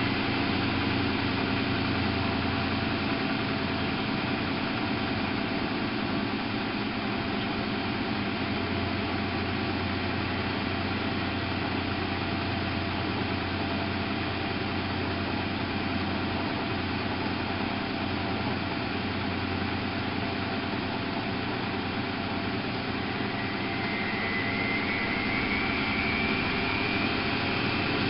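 Miele Novotronic W830 washing machine running with a steady motor hum and drum noise; near the end the motor whine rises in pitch as it speeds up.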